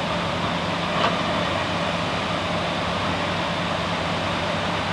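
Excavator's diesel engine running steadily with a low hum, over the steady rush of floodwater in the creek; a single short knock about a second in.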